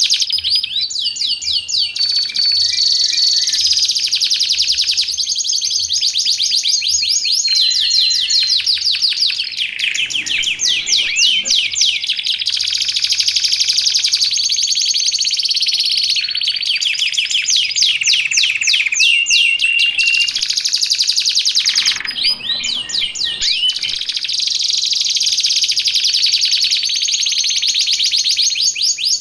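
Canary singing nonstop: fast rolling trills and rapid strings of repeated notes, with held whistled tones in between.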